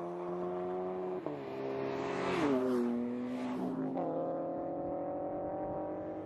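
Subaru BRZ's flat-four engine pulling hard on track. Its pitch dips about a second in and glides down around two and a half seconds in, then jumps back up about four seconds in and holds steady.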